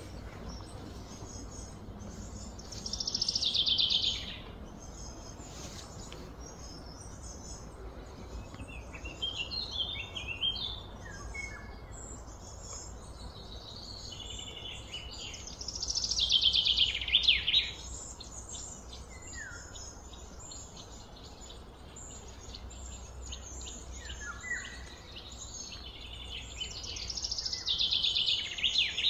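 A bird calling three times, about twelve seconds apart, each call a quick high run of notes falling in pitch, with softer short chirps between the calls, over a faint steady low hum.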